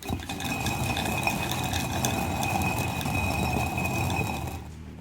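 Hand-turned stone quern (ragi kal) grinding urad dal: the upper stone scraping round on the lower one, with small clinks and crackles of the lentils splitting between the stones. It quietens near the end.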